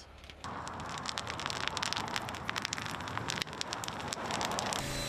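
Mormon crickets being crushed: a dense crackling of many sharp clicks over a hiss, starting about half a second in. Near the end a steady mechanical hum with a high tone takes over.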